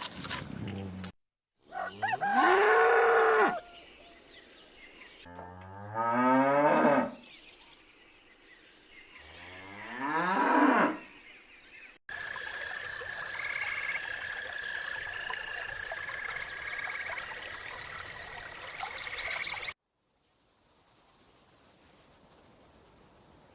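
A cow mooing three times, each a long, loud low call that rises and falls. After that comes a steady, high, trilling and chirping sound for about eight seconds.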